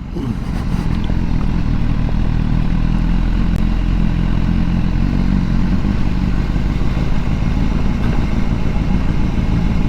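BMW S1000R's inline-four engine running steadily at low speed as the bike rides over a cobbled street, with rumble and clatter from the cobbles under the tyres.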